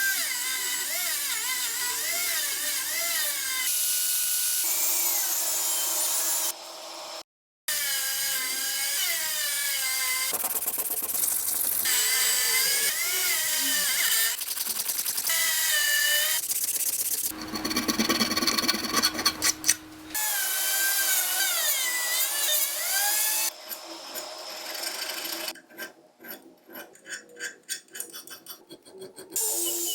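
Small electric power tool whirring, its pitch wavering up and down as it is pressed on and eased off the work, in several short edited stretches. Near the end, a run of quick rubbing or scraping strokes.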